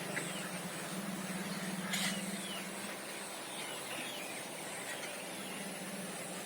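Faint bird chirps, short scattered calls over a steady low hum and a constant high-pitched tone, with one sharp click about two seconds in.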